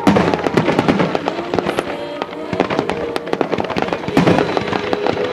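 Fireworks going off in a dense barrage: many sharp bangs and crackles in quick succession, with music playing underneath.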